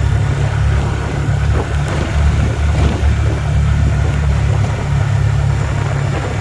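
Car driving, with a steady low rumble of engine and road noise heard from inside the cabin.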